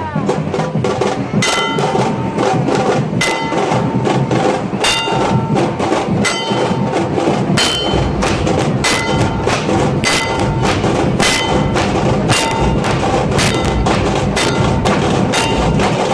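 Nashik dhol ensemble playing: loud, fast dhol and tasha drumming with repeated ringing metallic strikes over the top, the deep dhol bass growing heavier about halfway through.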